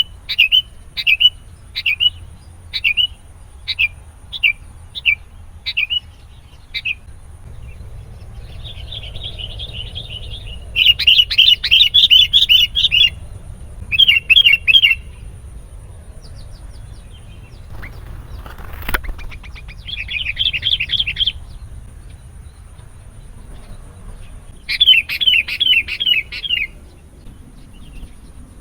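Sooty-headed bulbul calling: a run of short whistled chirps about every half second, then several loud bursts of rapid chattering notes. There is a single sharp click about two-thirds of the way through.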